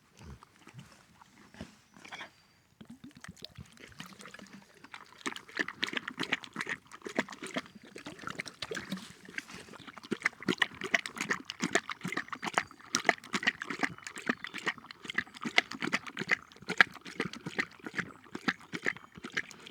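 Cane Corso dog lapping water: a dense, irregular run of wet slurps and clicks that starts a few seconds in and grows louder.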